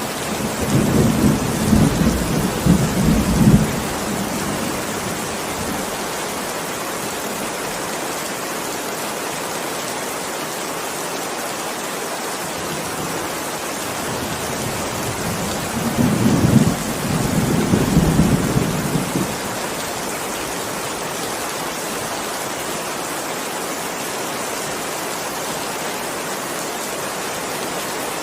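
Steady heavy rain with two rolls of thunder, one right at the start and another about halfway through, each rumbling for three to four seconds over the hiss of the rain.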